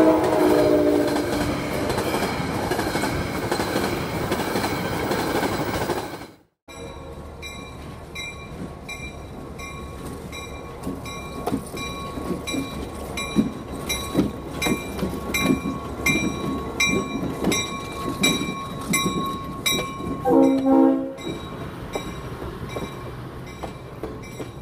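A full-size train rumbles past, its horn chord dying away just after the start; the sound cuts off about six seconds in. Then an HO-scale model passenger train runs with a steady faint whine and regular clicking of its wheels over the rail joints, and sounds a short horn chord about twenty seconds in.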